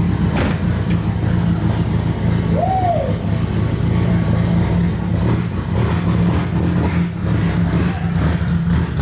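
Nissan SR20 four-cylinder engine in a 240SX running steadily just after being started for the first time after the build.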